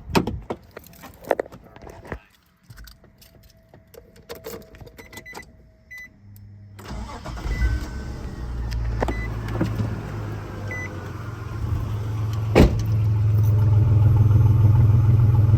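A few clicks, then about seven seconds in a 2003 Nissan Xterra's engine starts and settles into a steady idle that grows louder near the end, running smoothly now that its misfire has been fixed.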